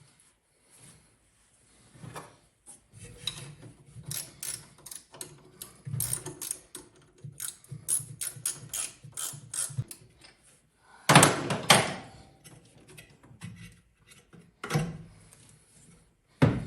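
Hand tools on engine parts: a ratchet wrench clicking in quick runs, then a louder clatter a little past halfway and two sharp knocks near the end.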